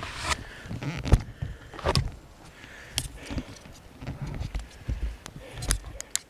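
Footsteps crunching over forest-floor litter, with irregular thuds and the snap of twigs; the sharpest knock comes about a second in.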